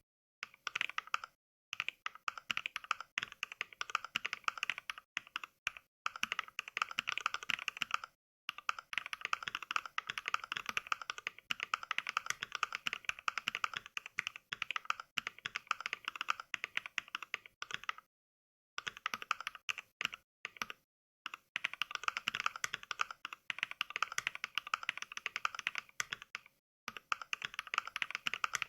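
Simulated mechanical-keyboard typing from the Mechvibes app's NK Cream switch sound pack: fast runs of keystroke clicks, broken several times by brief dead-silent pauses.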